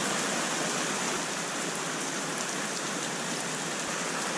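Heavy rain falling steadily, a dense, even hiss of a downpour so heavy that water stands an inch deep on the ground.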